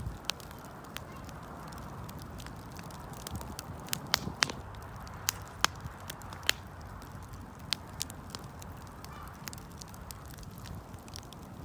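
Wood campfire burning, with a steady low rumble and irregular sharp crackles and pops from the burning wood.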